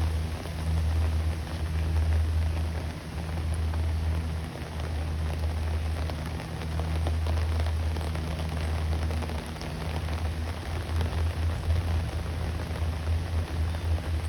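Steady rain falling, with a low hum underneath that swells and fades every few seconds.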